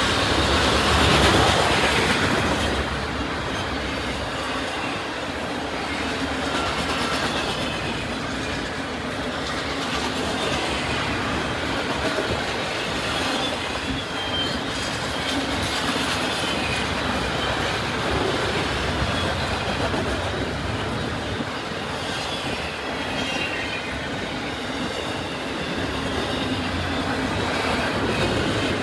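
A CSX intermodal freight train's cars rolling steadily past, with continuous wheel-on-rail noise and a few brief high wheel squeals.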